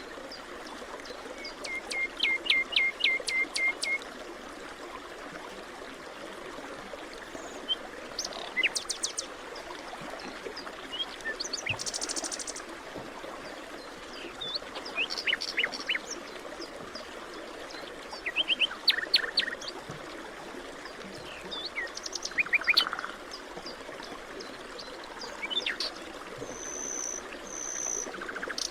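Forest birdsong: several birds repeating short phrases of quick, sharp chirps every few seconds, over a steady hiss of background ambience, which is plausibly running water.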